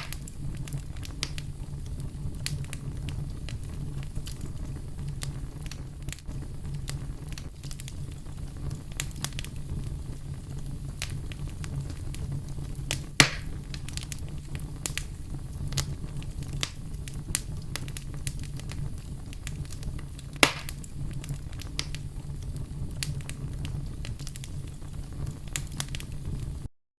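Wood fire burning with a steady low rumble and constant small crackles, with two louder pops, one about halfway and one about three-quarters of the way through. The sound cuts off suddenly near the end.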